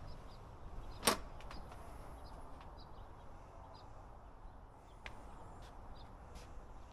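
Outdoor ambience: a low, steady rumble with faint, short, high bird chirps now and then, and one sharp click about a second in.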